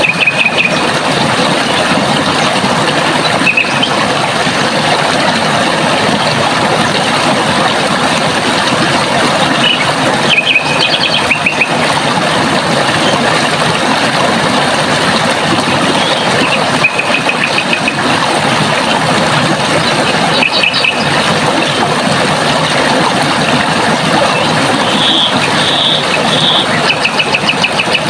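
Running water flowing steadily, with a bird giving short rapid trills every few seconds.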